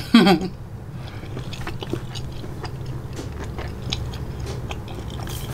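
A person chewing a mouthful of naan-bread pizza: many small, soft, wet mouth clicks, irregular, over a low steady hum.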